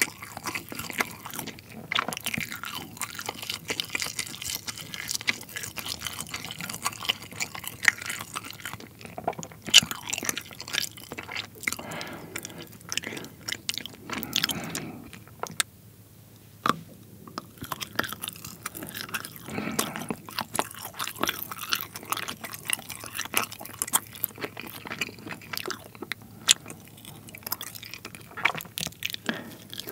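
Close-miked chewing of soft, rubbery pull-apart string cheese: dense, irregular wet clicks and smacks, with a short pause about halfway through before the chewing resumes.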